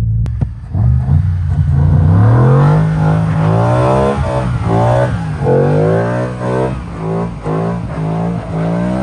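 Toyota Supra MK4's turbocharged 2JZ straight-six engine revving up and down over and over while drifting, its pitch climbing and then dropping about once a second as the throttle is worked.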